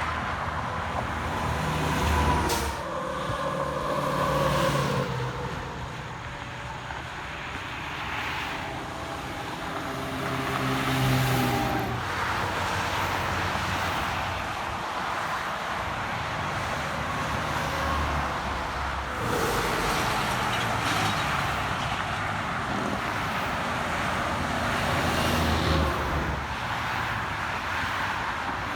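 Road traffic passing one vehicle after another, trucks among them, their engines droning as they go by. The loudest passes come about 2, 4, 11, 19 and 25 seconds in.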